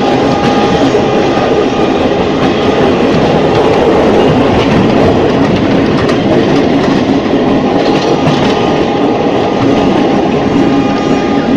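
Ex-JR 203 series electric multiple unit running on the rails: a steady, loud rolling rumble with a faint steady whine over it, and a few sharp rail-joint clicks about two-thirds of the way through.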